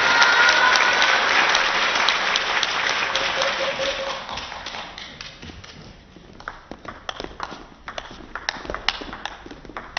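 Audience applause dying away over the first five seconds, followed by scattered sharp taps, several a second.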